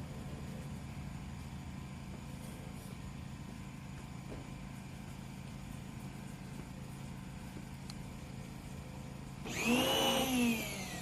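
Gas-engine pressure washer running steadily with a low drone. Near the end a louder vehicle engine sounds for about a second, its pitch rising and then falling.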